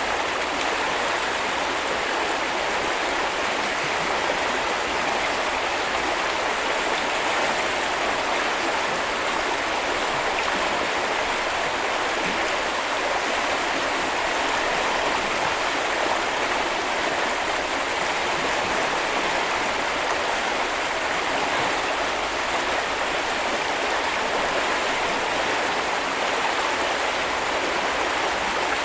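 A river stream flowing steadily over stones, an even rushing of water.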